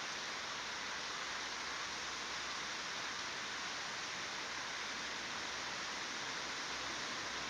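Steady, even hiss of flowing water.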